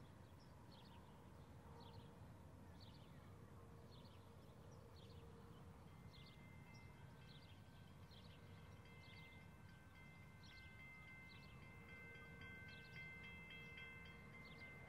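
Faint low rumble of distant approaching trains, a V/Line VLocity diesel railcar with an SCT freight train behind, with a bird chirping short high calls about once or twice a second. From about six seconds in, several faint steady high tones join in.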